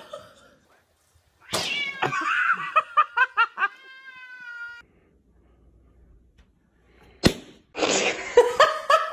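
A cat meowing, a quick run of short calls about a second and a half in, then a longer drawn-out call. Later, a sharp knock and a noisy burst.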